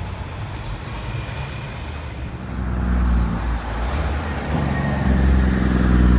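Semi truck's diesel engine running, getting louder about halfway in as the truck comes closer.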